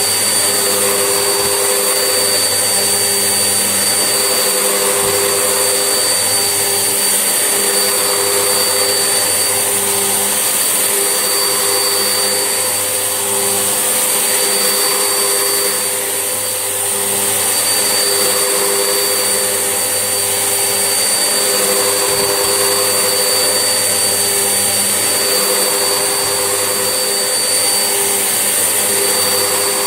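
Vax Essentials vacuum cleaner running steadily while hoovering: a continuous motor rush with a steady high whistle, dipping slightly for a moment about halfway through.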